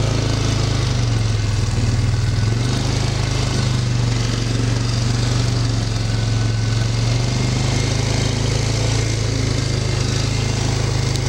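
Small engine running at a steady speed, with an even low hum that does not change.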